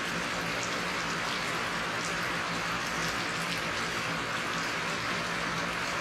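Steady rain falling: an even, continuous hiss with individual drops ticking through it.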